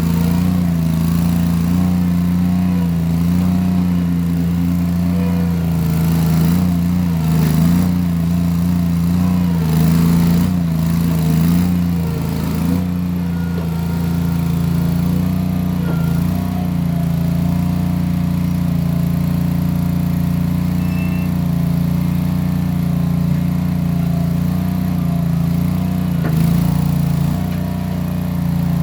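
Case 1816 skid steer's engine running steadily under work, with a few brief surges in its note in the first half.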